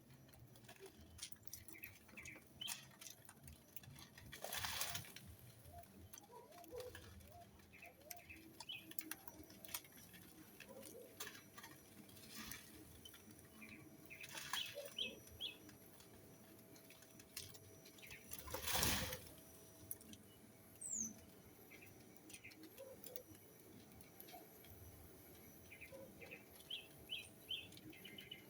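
Birds moving about: scattered faint rustles and taps, two louder wing-flapping whooshes about five and nineteen seconds in, and short high chirps, more frequent near the end.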